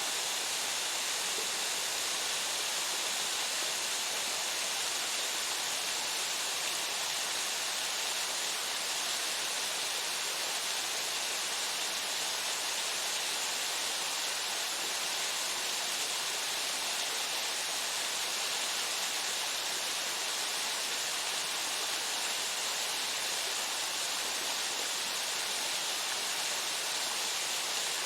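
A waterfall rushing steadily: an even, unbroken hiss of falling water, brighter and hissier than it is deep, with no change in level.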